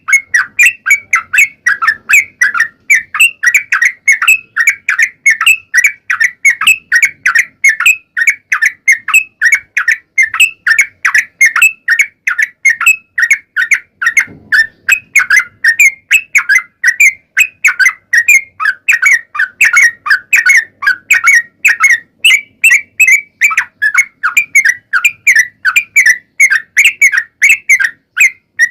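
Yellow-vented bulbul (cucak trucuk) singing a long, unbroken run of rapid, repeated bubbling notes, several a second, used as a lure call to provoke other trucuk birds to answer.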